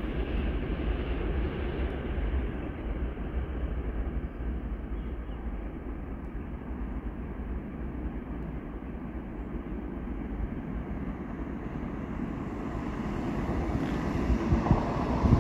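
Steady low rumble of a train running through the station, growing a little louder near the end with a few sharp knocks.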